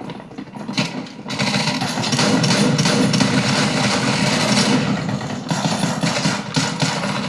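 Video game sound effects played through the Armaggeddon X-Bar 2 soundbar: a loud, dense rushing noise, a few short hits just before a second in, then a full swell that holds and thins out near the end.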